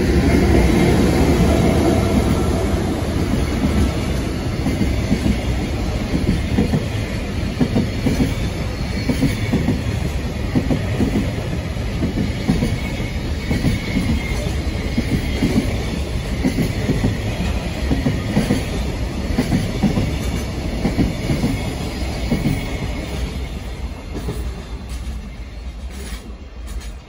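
JR Freight container train passing, the wheels of its container wagons clattering over the rail joints in a steady clickety-clack rhythm. It is loudest at the start and fades as the tail of the train draws away near the end.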